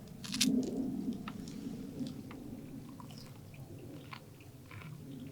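A person biting into crispy fried food with a loud crunch about half a second in, then chewing with small crisp crackles.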